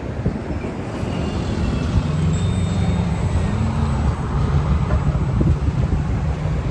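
A heavy road vehicle's engine running as it goes by, with a steady low rumble and a faint high whine in the middle, over road traffic noise.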